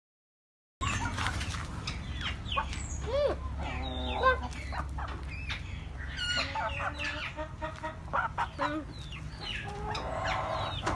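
Several Parrot Beak Aseel hens clucking and calling, many short overlapping calls rising and falling in pitch over a low rumble. The sound starts suddenly about a second in.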